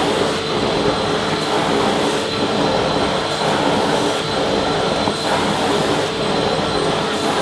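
Vacuum cleaner running steadily: a continuous motor whine and rushing air with a few steady tones in it, no changes in pitch or level.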